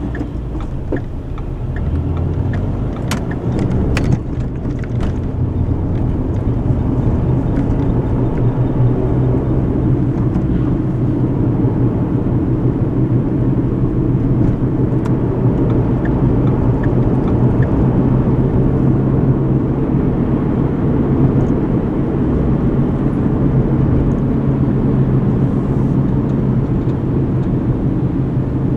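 Road noise inside a moving car: a steady low rumble of tyres and engine, growing a little louder over the first few seconds and then holding even. Faint regular ticking, about two a second, can be heard at the very start.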